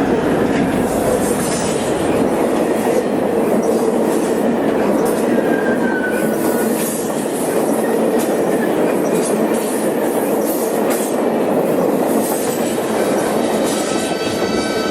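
Added sound effect of a full-size train rolling on the rails, a steady rumble with wheel clatter and a brief faint squeal midway. A horn begins sounding about a second before the end.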